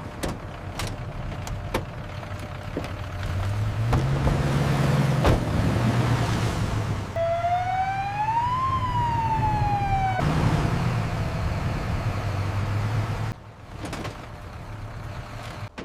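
Emergency vehicle siren giving one slow wail, rising and then falling in pitch, over the low drone of the rescue vehicle's engine. A few sharp knocks come in the first seconds.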